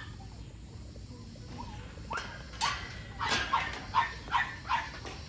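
A dog barking: a quick run of about seven sharp barks that starts about two seconds in.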